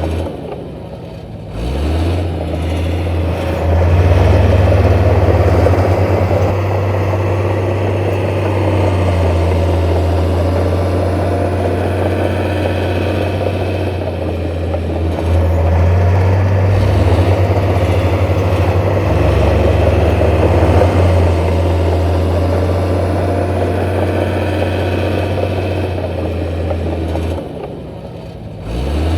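Heavy diesel engine of an earthmoving machine running under changing load, its pitch stepping up and down. The sound drops away briefly about a second in and again near the end.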